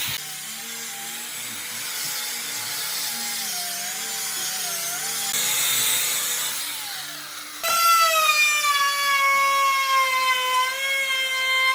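Power tool working wood: a motor whine that wavers in pitch, then, after an abrupt change about two-thirds of the way through, a louder, higher whine that sinks slowly as the tool bears down under load.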